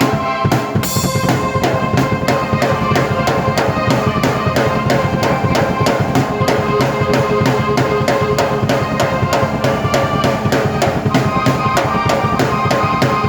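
Drum kit and keyboard playing an instrumental piece together: a steady, fast beat of kick drum and snare under sustained keyboard notes, with a cymbal crash about a second in.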